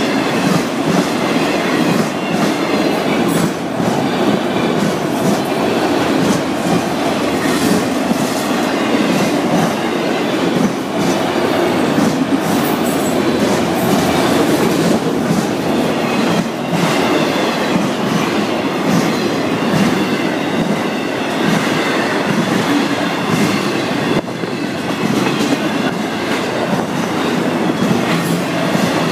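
Florida East Coast Railway freight cars rolling past close by: a steady, loud rumble and clatter of steel wheels on the rails, with irregular clicks as the wheels pass over the rail joints.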